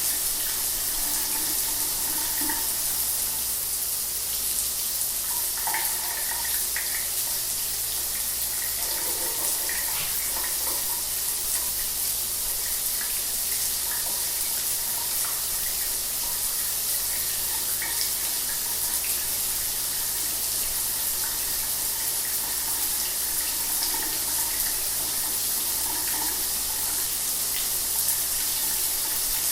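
Shower water running steadily, an even hiss of spray with small irregular splashes.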